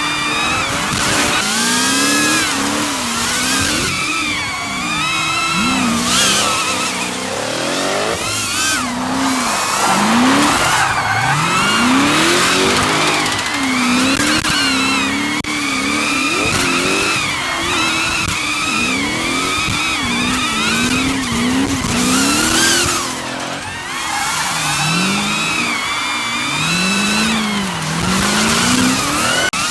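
Drift car engines revving up and down over and over, with tyres squealing through the slides.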